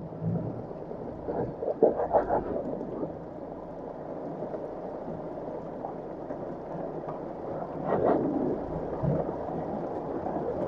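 Heavy rain falling on a Land Rover Defender 110 and its windscreen: a steady hiss with a low rumble beneath it. A louder patch of irregular knocks comes about two seconds in and again near eight seconds.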